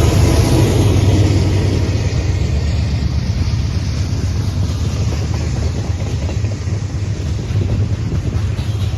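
Freight train rolling past: a steady low rumble with wind noise on the microphone. A locomotive engine's pitched drone fades out in the first second or so.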